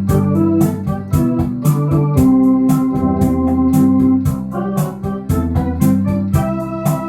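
Electronic organ playing a rumba arrangement in C: held chords and melody over a bass line, with the instrument's built-in drum rhythm ticking steadily underneath.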